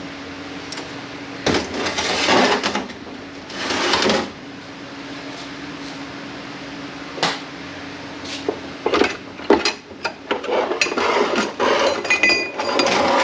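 Hand tools and metal transmission parts being handled during a teardown: scraping, rattling and sharp clicks and clinks, busiest near the end, over a steady hum that stops about eight and a half seconds in.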